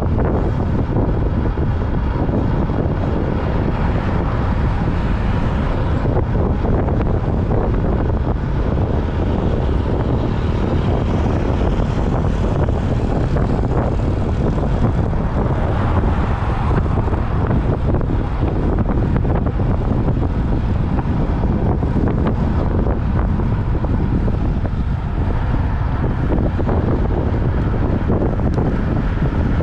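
Steady wind noise buffeting the microphone of a camera on a moving road bike, a loud, even rush heaviest in the low end.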